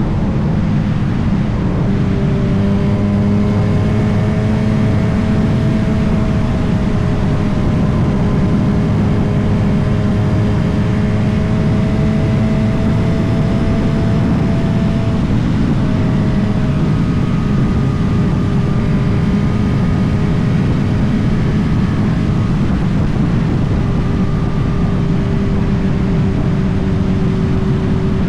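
Motorcycle engine running at a steady cruising pace under a heavy rush of noise. The engine note holds nearly level, shifting slightly in pitch about halfway through.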